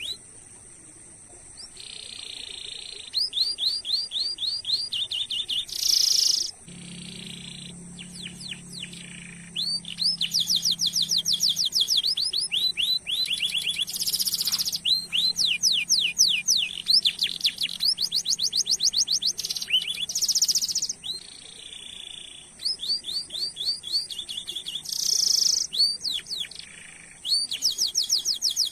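Domestic canary singing long rolling trills: runs of fast, evenly repeated chirps, broken by a few short, loud buzzing bursts. A faint steady high tone runs underneath.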